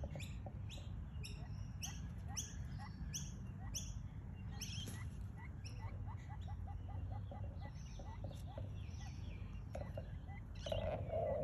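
A bird chirping: short high chirps repeated evenly, about two or three a second, for the first four seconds or so, then fainter and more scattered. A brief louder, lower sound comes near the end.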